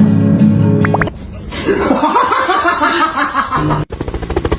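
Music with steady pitched notes plays for about a second and cuts off. Laughter follows, then a short low tone and a sudden cut into fast, even pulsing near the end.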